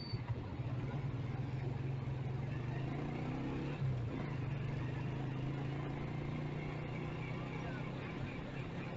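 Motorcycle engine running steadily during a city ride, a low even hum with a brief bump about four seconds in.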